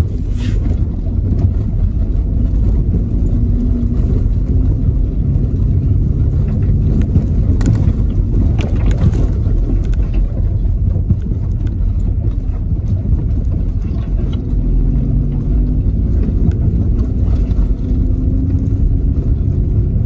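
Lowered Volvo's non-turbo five-cylinder engine running at low, steady revs as the car rumbles over a rutted mud track, heard from inside the cabin, with a few knocks about eight seconds in.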